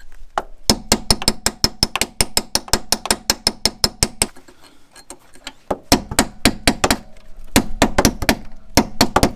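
Hammer blows on a steel drift, driving a rusted, seized strut mounting bolt through its bushing: rapid ringing metallic strikes, about five a second, in three runs with short pauses between them.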